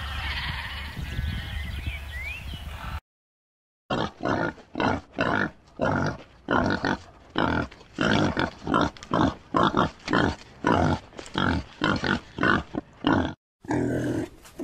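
Pig grunting over and over, short grunts at about two a second for around nine seconds.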